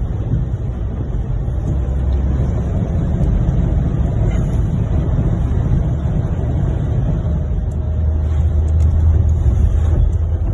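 A vehicle driving through floodwater: a steady low engine rumble under a continuous rush of water.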